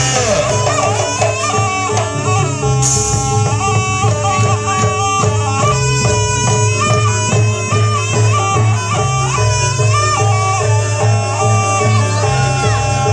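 Jaranan Buto accompaniment: a shrill, reedy slompret (Javanese double-reed trumpet) playing a stepped melody over a steady beat of drums and gongs.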